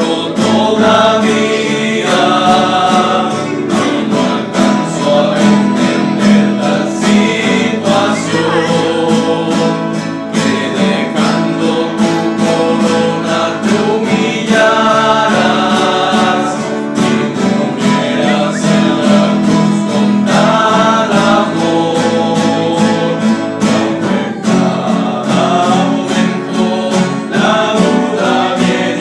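Men's rondalla singing together in parts, accompanied by strummed acoustic guitars.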